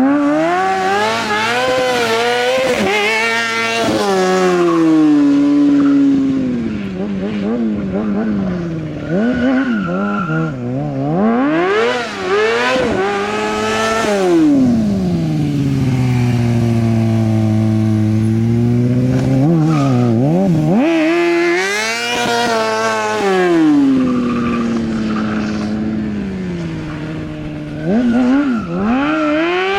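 Motorcycle engine revved up and down again and again, with quick throttle blips, stretches held at steady revs, and one long fall and climb in pitch near the middle.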